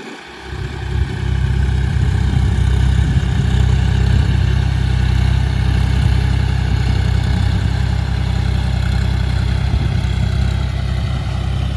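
John Deere 5045D tractor's three-cylinder diesel engine running steadily with a heavy low rumble, growing louder over the first second or so.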